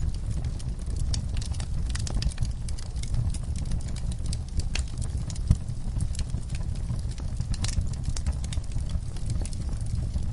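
Logs burning in a fireplace: a steady low rumble of flames with frequent sharp crackles and pops, one louder pop about halfway through.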